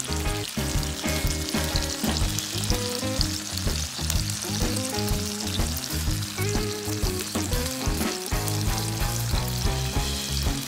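Bacon-wrapped rice rolls sizzling steadily in hot oil in a frying pan. Background music plays underneath.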